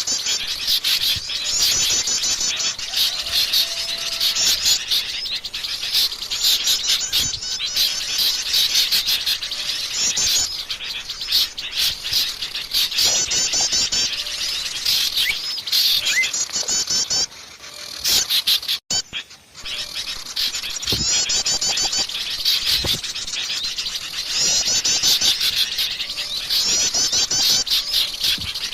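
A dense, noisy chorus of small songbirds chirping and chattering in quick repeated trills, the busy agitated calling of a mixed flock. The sound drops out briefly a little past the middle, then resumes.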